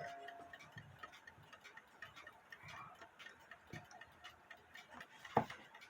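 Mechanical clock movement ticking faintly and steadily, with the last music-box note dying away at the very start. There is a louder single click near the end.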